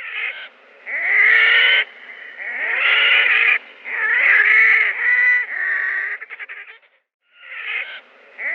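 A wild bird giving a series of loud, drawn-out calls, each about a second long with short gaps between, and a quick run of clicks about six seconds in.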